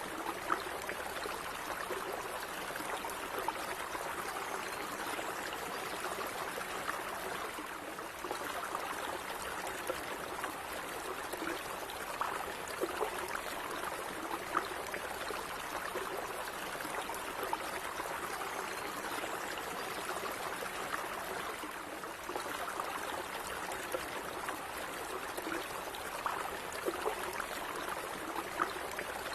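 Small stream of water running steadily over rocks, an even babble with little splashes and gurgles.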